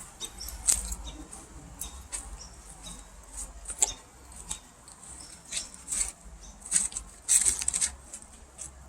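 Footsteps on a woodland dirt trail strewn with leaves and twigs: uneven crackling and rustling steps, with a denser cluster of rustling near the end.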